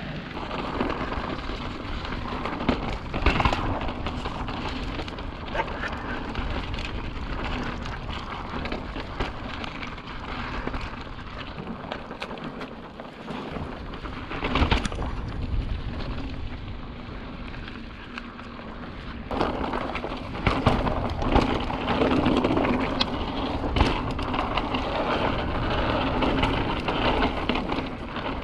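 Mountain bike being ridden over slickrock: a steady rumble of tyres rolling on rock and of air over the action-camera microphone, with occasional sharp knocks and rattles from the bike over bumps.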